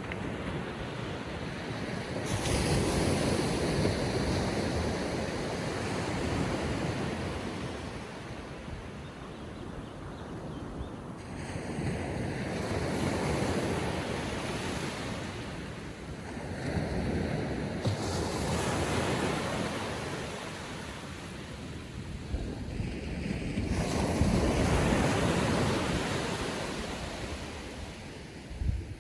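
Small ocean waves breaking and washing up the beach on a calm sea, the surf swelling and fading in slow surges every five or six seconds.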